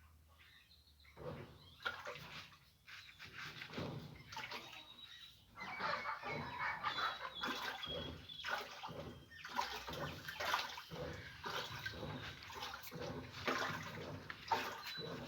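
Water splashing and sloshing inside an Easy washing machine's tub, in irregular bursts that grow louder about halfway through.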